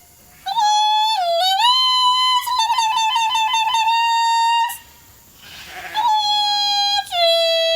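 A shepherd's loud, high-pitched calls to bring the sheep in: long held notes that slide up and down, with a warbling trill in the middle, broken by two short pauses.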